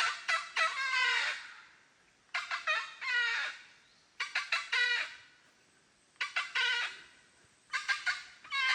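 Red-throated caracara (cancão) calling in bouts of rapid repeated notes. There are five bouts, each about a second long, with short pauses between them.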